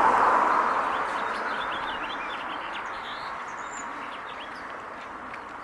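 Small birds chirping in quick, short notes over a steady rushing noise that fades away during the first few seconds.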